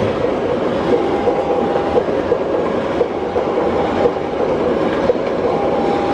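Passenger coaches of a KAI train rolling past close by: a steady rumble with repeated clickety-clack of the wheels over the rail joints.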